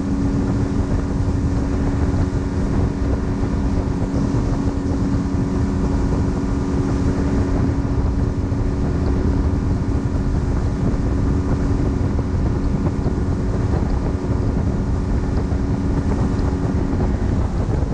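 Outboard motor pushing a panga boat at a steady speed, with heavy wind buffeting the microphone and water noise. The engine's steady note drops away near the end.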